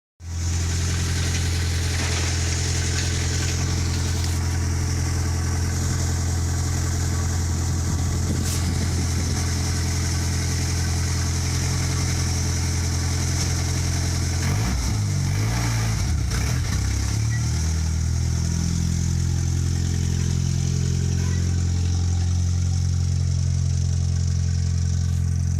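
1953 Willys stake truck engine running at a steady idle; about fifteen seconds in, the engine speed wavers up and down briefly before settling back to a steady idle.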